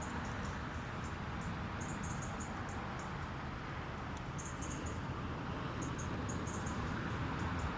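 Quick, high-pitched chirps in short clusters of four or five, repeating every second or two, over a steady outdoor hiss.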